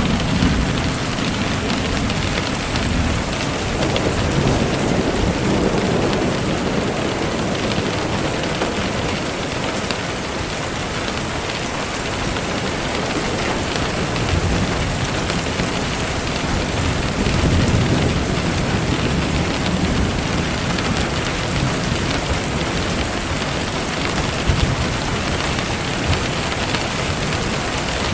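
Steady rain falling, with low rumbles of thunder in the first few seconds and again about two-thirds of the way through.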